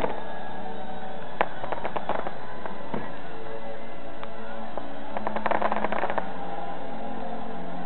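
Aerial fireworks bursting and crackling in two clusters of rapid pops, about one and a half seconds in and again about five and a half seconds in, with music playing underneath.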